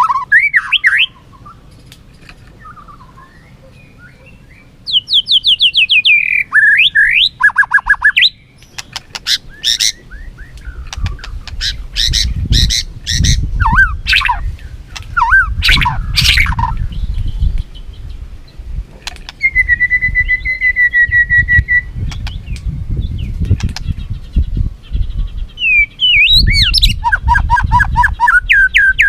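White-rumped shama singing a loud, varied contest song: runs of fast repeated notes, sliding whistles and a steady held trill, in phrases broken by short pauses. A low rumble sits beneath the song through much of the second half.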